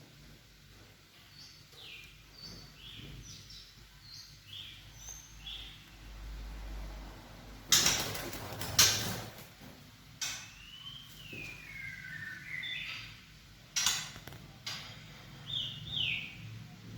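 White-rumped shama giving short high chirps, with a longer call that slides down and back up in the middle. About five loud sharp knocks cut in around the middle.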